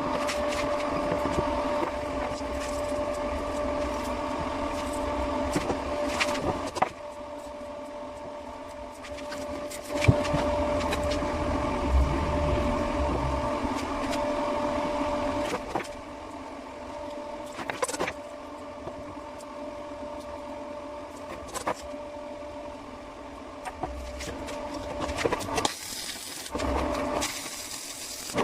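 Small electric motor of a handmade lathe running with a steady hum, its level rising and falling in long stretches, with a few sharp clicks along the way.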